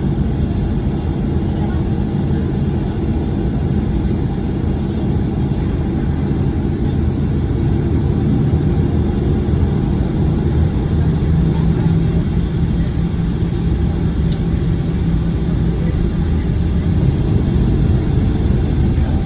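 Cabin noise of a Boeing 737-900ER on the ground after landing: a steady low rumble from its CFM56 engines at idle and the airframe, with faint steady engine tones.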